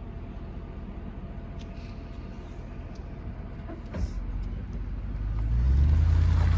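Toyota Land Cruiser 100 series driving on a dirt trail, with a steady low drone of engine and road noise. A single knock comes about four seconds in, then a low rumble grows louder toward the end.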